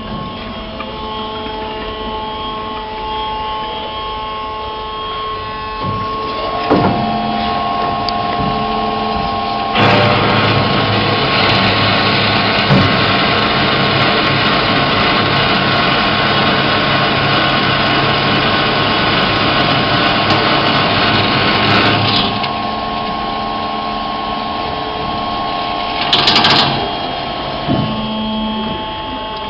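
PEGAS PROFI 400 double-column automatic metal band saw running with a steady machine hum. About ten seconds in it grows louder and noisier for around twelve seconds, then settles back, with a short hiss a few seconds later.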